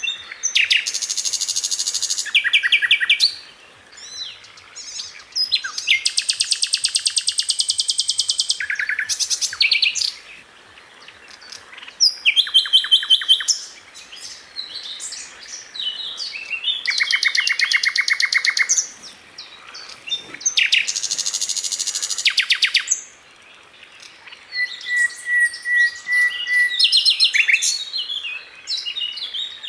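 Sikatan londo flycatcher singing: bursts of rapid, tightly spaced high notes, fast rattling trills each lasting one to three seconds, with short pauses between them and one thin held whistle near the end.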